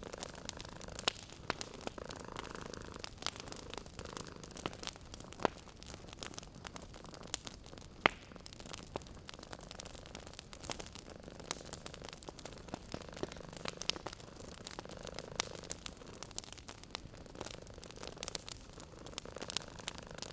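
Wood fire crackling in a fireplace, with irregular sharp pops, the loudest about eight seconds in. A cat purrs steadily underneath, swelling and fading with each breath.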